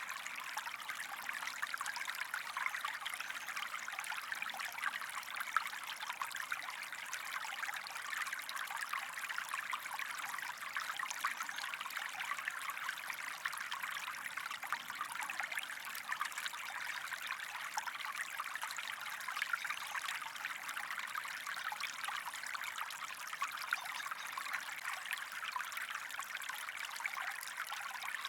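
Small stream of running water trickling and babbling steadily.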